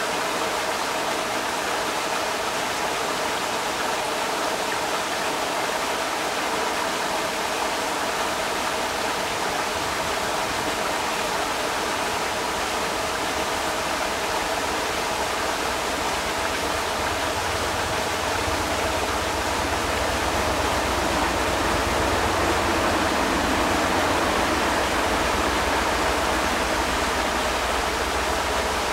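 Creek water rushing steadily over rocks, an even wash of noise. About two-thirds of the way in a low rumble joins and the sound grows a little louder for several seconds.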